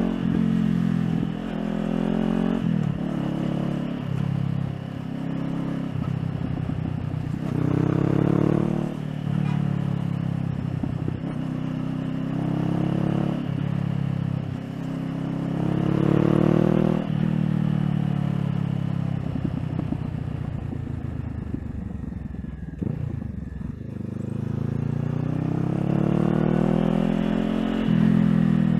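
Honda CBR500R's parallel-twin engine accelerating through the gears, the pitch climbing and then dropping at each upshift. About two-thirds of the way through it eases off and slows, then pulls away again near the end.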